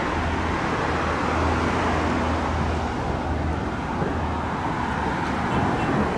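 Motor vehicle running: a steady low engine hum under a loud, even rushing noise.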